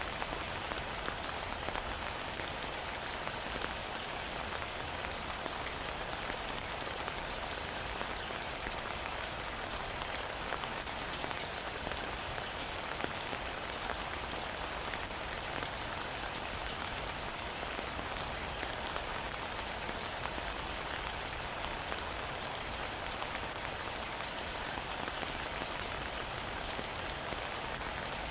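Heavy rain falling steadily, an even hiss of dense drops with a few sharper individual drop ticks.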